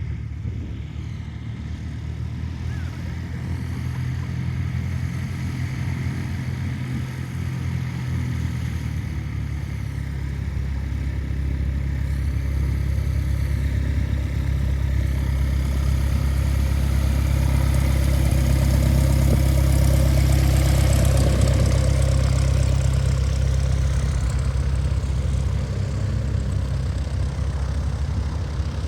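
Piston engine of a light propeller aircraft running steadily, growing louder as it passes, loudest about two-thirds of the way through, then fading slightly.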